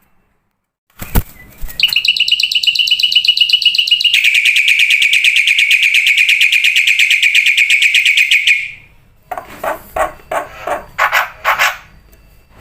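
Bird song from a training recording: after a click about a second in, a long, fast, even trill that steps down in pitch about four seconds in and stops near nine seconds, followed by a series of separate harsh chattering notes.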